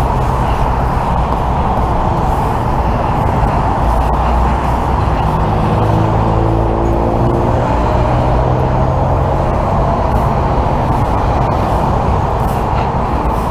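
Steady, loud vehicle noise: a truck engine running low and even under the wash of freeway traffic.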